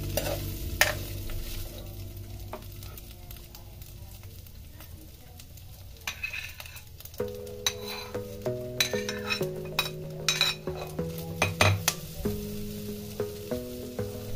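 A metal spatula stirs and scrapes sliced chicken frying in oil in a wok, over a steady sizzle. About halfway through, snow peas and chili peppers are tipped in and the spatula knocks against the wok come thick and fast.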